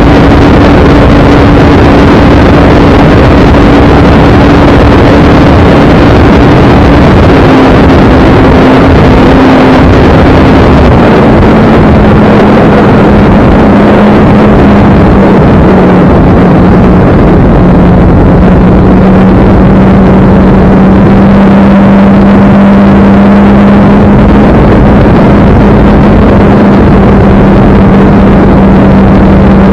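The Carbon Cub S2 RC airplane's brushless electric motor and propeller run under power in flight, with loud, steady air rush. The motor's tone steps down a few times in the first half as the throttle comes back, then holds steady.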